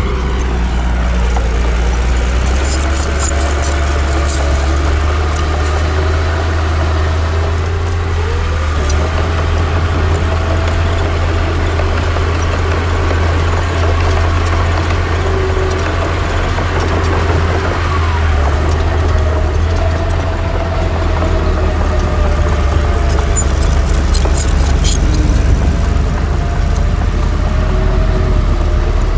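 Heavy diesel earth-moving machinery running steadily, its engine pitch drifting up and down under changing load. There are brief high clicks a few seconds in and again near the end.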